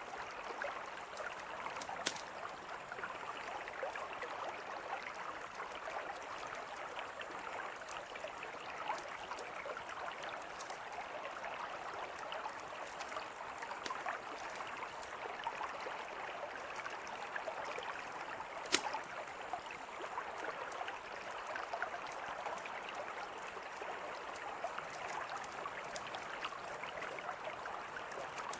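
Mountain river flowing steadily, with a campfire crackling over it: scattered small ticks and two sharper pops, one about two seconds in and one near nineteen seconds.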